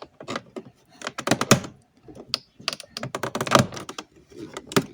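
Plastic door-trim pieces and their clips clicking and knocking as trim is pried and worked loose from a car's interior door panel: an irregular run of sharp clicks and taps, with a few louder knocks.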